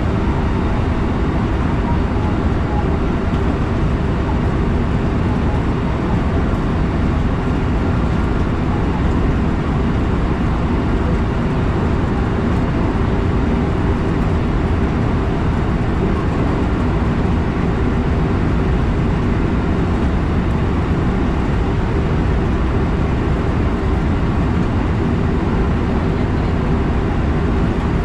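Steady running noise of a JR West electric train heard from inside the front car: wheels on the rails and the train's running gear, a constant low rumble with no change.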